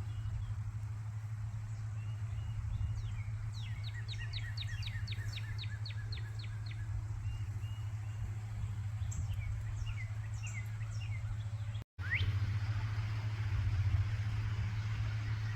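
Wild birds singing over a steady low hum: one bird gives a fast trill of short, high, repeated notes, and later come scattered chirps and a rising whistle.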